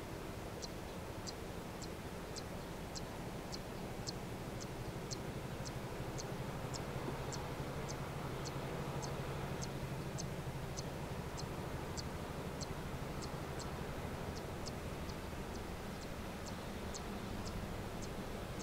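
Low, steady drone of a distant engine that swells a little midway, with a regular series of short, high ticks about one and a half a second running over it.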